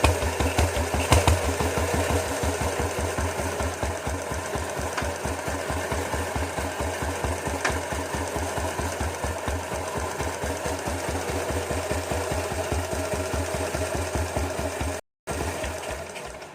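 Ruggerini 550cc diesel engine running with a steady, even knocking beat of low thumps. The sound drops out for a moment near the end.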